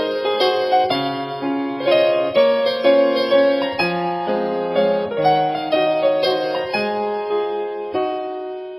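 Solo piano playing a gentle melody over flowing chords, the notes ringing and decaying; the phrase dies away near the end.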